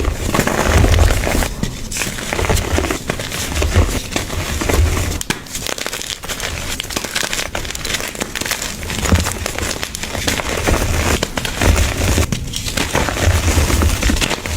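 Blocks of gym chalk being crushed, crunching and crumbling in a dense run of crisp crackles, with dull low thuds every second or so.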